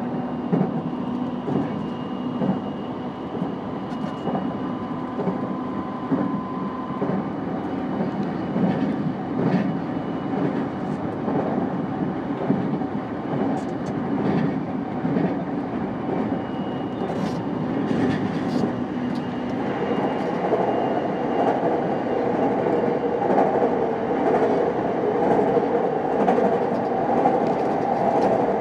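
JR East E233-5000 series electric train running along the line: a steady rumble of wheels on rail, with scattered clicks. It grows louder about twenty seconds in.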